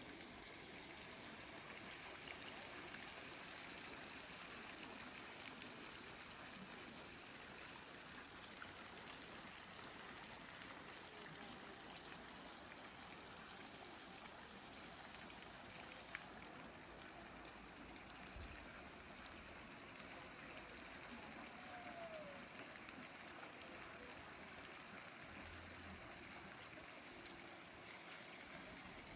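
Steady rush of flowing water, faint and even throughout.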